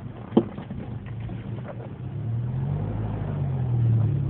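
1994 Mazda B2300 pickup's engine running at a low, steady note after the howl has died away near a standstill, then growing louder from about halfway as the truck pulls away again. A brief sharp squeak comes about half a second in.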